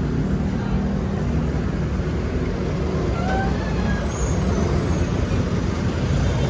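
Steady low rumble of road traffic, heard from a bicycle on the move, with a few faint brief squeaks about halfway through.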